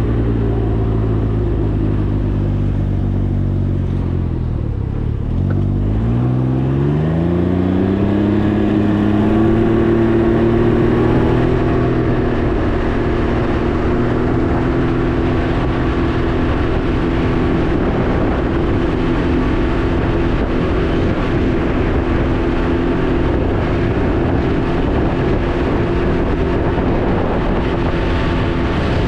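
Can-Am Ryker 900's three-cylinder engine on the move: its pitch falls as it slows for about the first five seconds, then climbs steeply as it accelerates hard and settles into a steady cruise.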